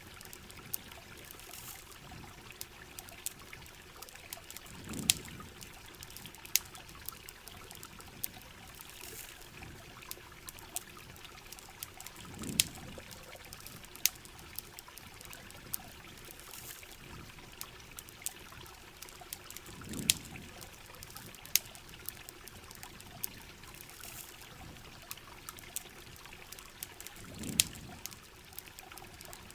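Heavy rain falling steadily, with trickling, pouring water and the scattered sharp pops of a crackling campfire. A low swell rises and fades about every seven and a half seconds.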